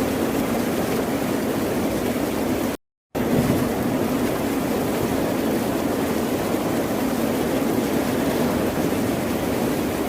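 Ocean surf: a steady rush of waves with no distinct breaks. Near three seconds in it drops out to dead silence for a moment, then resumes.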